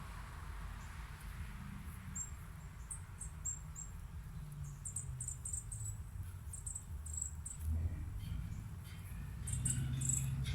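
Small birds giving short, very high chirps in scattered clusters, busiest in the second half, over a low steady rumble.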